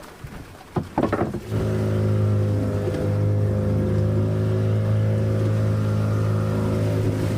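A fishing boat's engine: a few knocks, then about a second and a half in it starts and runs steadily at an even pitch.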